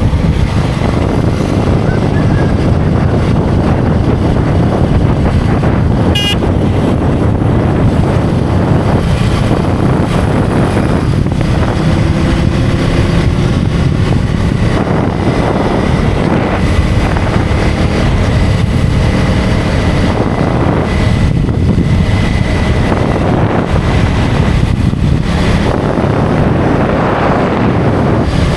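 KTM Duke 250 single-cylinder motorcycle riding at road speed, with loud wind rushing over the microphone and the engine note rising and falling a little around the middle. There is one short sharp click about six seconds in.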